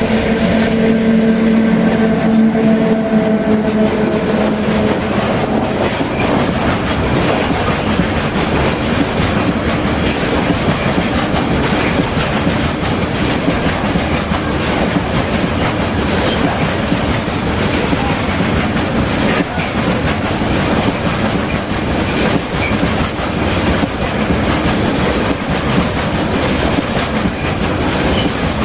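A freight train hauled by an ET22 (201E) electric locomotive rolls past, its wagons' wheels giving a steady clickety-clack rumble over the rails. A steady pitched tone is heard at first and stops about five seconds in.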